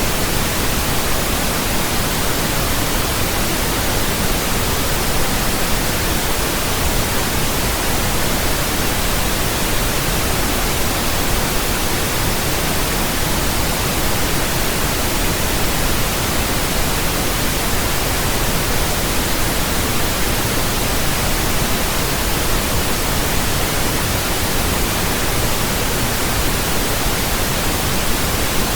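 Steady pink noise: an even, unchanging hiss spread across all pitches, fuller in the bass than white noise.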